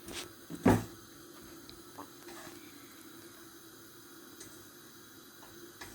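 Food cooking in a pan on the stove: a faint steady bubbling, sizzling hiss. A short, louder sound with falling pitch comes under a second in.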